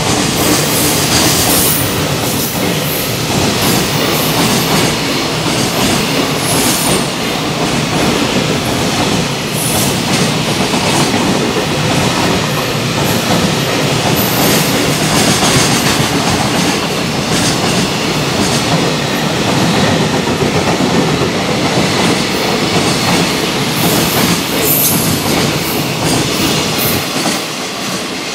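Long freight train of container flat wagons running through the station at speed: a continuous loud rumble and clatter of wheels over the rail joints, with brief high wheel squeals now and then. It eases slightly near the end as the last wagons pass.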